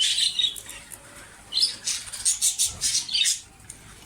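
Budgerigars chirping, a few short chirps among scratchy, rustling chatter.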